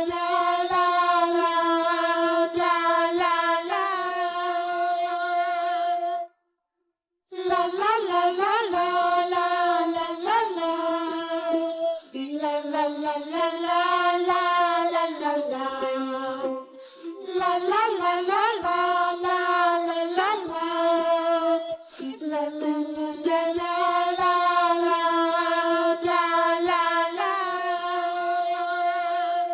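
A child-like voice singing a wordless, cheerful tune as background music, with held notes and little pitch slides and a brief break about six seconds in.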